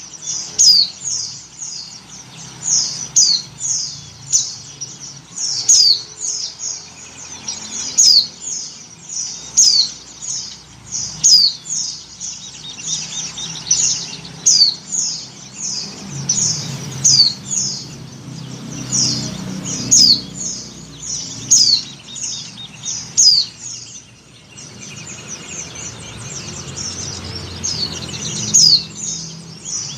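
White-eye (pleci) calling: a steady run of short, high chirps, one or two a second, many sliding downward in pitch. The calls are presented as those of a female in breeding condition calling to males.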